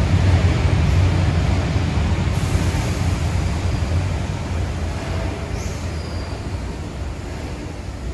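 A train running on rails: a steady low rumble with rail noise that slowly grows quieter.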